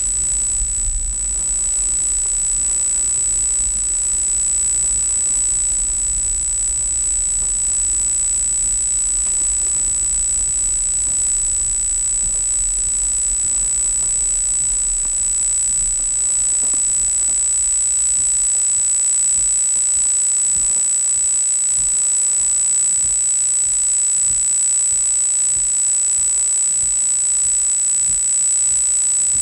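Car dashcam audio: a steady high-pitched electronic whine over an even hiss, with a low rumble that fades away about halfway through.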